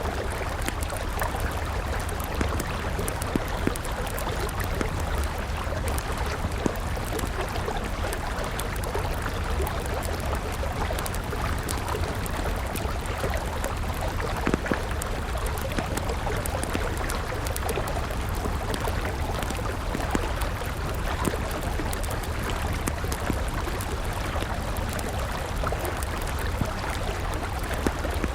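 A river flowing steadily, with the frequent small pops and crackles of a burning wood campfire over the water.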